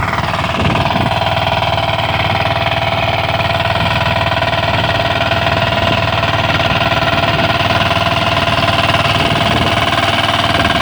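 Engine of a walk-behind tractor running steadily at a constant speed while it drives a rotary tiller, a continuous drone with a steady whine over it.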